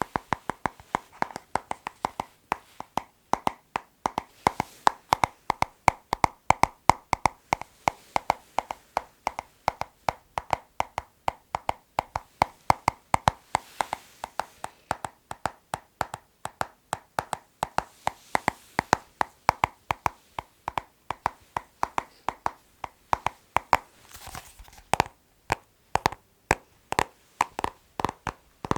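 Fingers tapping rhythmically on a hard object, several quick taps a second with a hollow knock to them, pausing briefly near the end.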